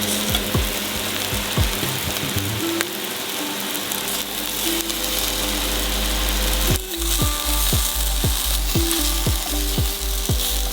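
Floured shrimp frying in hot oil in a pan, a steady sizzle.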